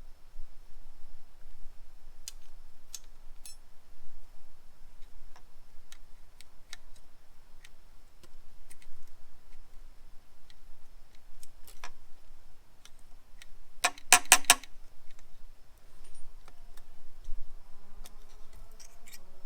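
Scattered light metallic clicks and clinks of hand tools and small engine parts being handled during an engine teardown, with a quick rattling run of clinks about fourteen seconds in.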